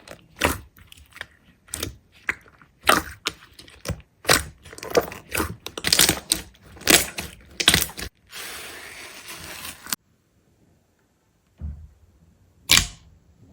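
Crunching and crackling: an uneven run of sharp clicks for about eight seconds, then a short hiss that cuts off abruptly. After a pause come a dull thump and one sharp click.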